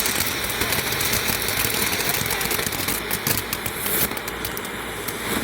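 A consumer firework crackling, a dense run of rapid small pops over a steady hiss.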